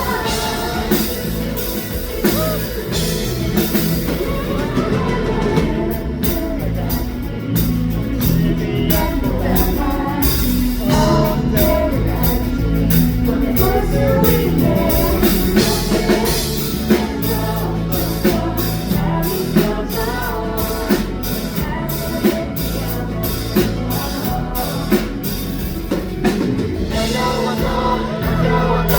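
A rock band playing live: female lead vocals over drum kit, electric guitar and bass, with steady, even drum hits through the middle of the song.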